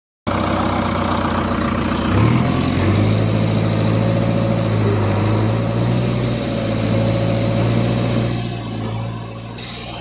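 Vehicle engine running steadily with a low hum, stepping up slightly in pitch about two seconds in, then growing quieter near the end.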